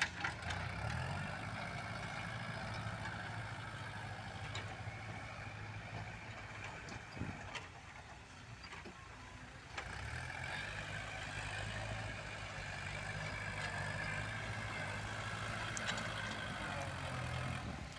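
Kubota L47 tractor loader's diesel engine working as it pushes soil, its note easing off for about two seconds midway and then picking up again under load.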